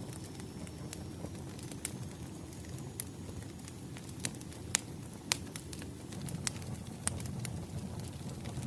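Wood fire crackling: irregular sharp pops and snaps over a steady low rustle of burning logs, with two louder pops about halfway through.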